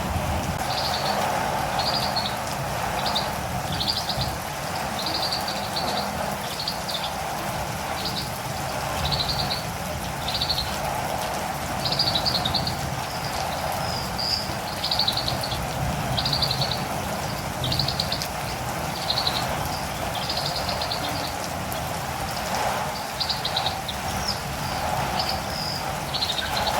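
Catirumbava birds calling in short, high, buzzy chirps, about one a second, over a steady hiss of rain.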